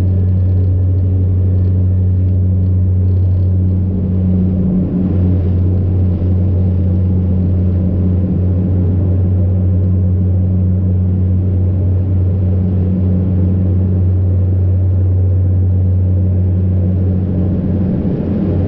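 Cabin noise of a SAAB 340B turboprop heard from a seat behind the wing: a loud, steady drone of the engine and propeller with a deep hum and a second, higher hum above it.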